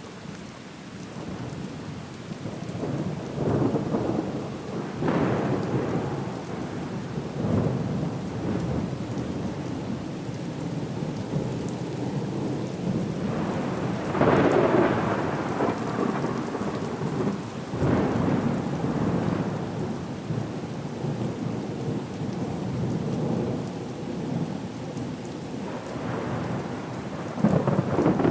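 Sea-storm ambience: a steady rain hiss with heavy rolling surges that swell and fade every several seconds. The strongest surge comes about halfway through, and another builds near the end.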